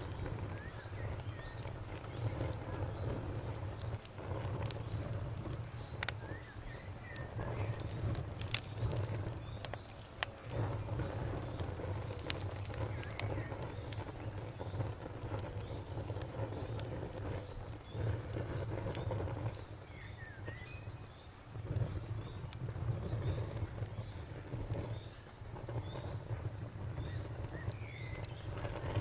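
Wood fire crackling with scattered sharp pops over a low rumble that swells and fades every few seconds. A cricket chirps in a steady, evenly pulsed high trill throughout, and a bird gives a few short chirps.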